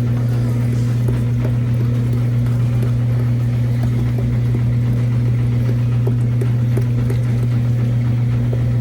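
A steady, loud low hum with faint small clicks scattered over it.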